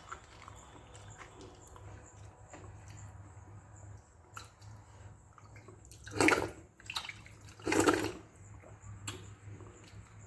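Wet eating sounds from watery fermented rice (pazhaya sadam): soft smacks and clicks, with two loud wet sounds, each about half a second, about six and eight seconds in.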